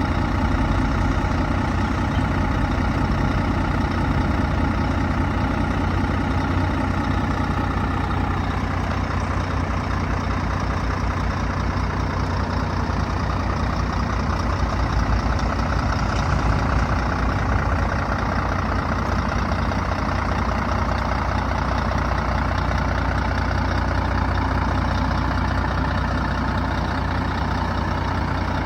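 Scania R124 400 truck's inline-six diesel idling steadily, with a deep low hum.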